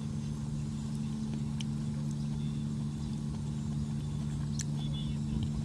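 A steady low motor hum, with a few faint ticks over it.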